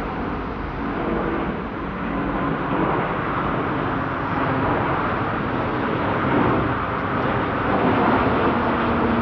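Jet airliner engines, a steady roar that grows gradually louder.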